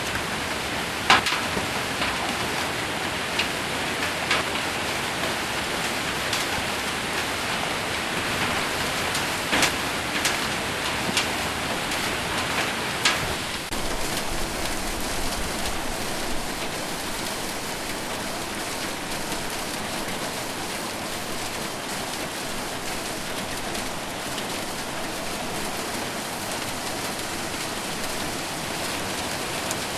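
Heavy rain with hail drumming on a metal roof: a steady downpour with a few sharp, loud hailstone strikes in the first half, then steadier and a little quieter rain.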